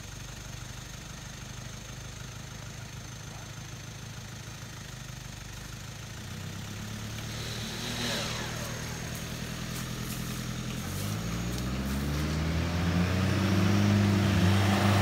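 Vehicle engine idling, then revving up from about eleven seconds in, its pitch rising and growing steadily louder.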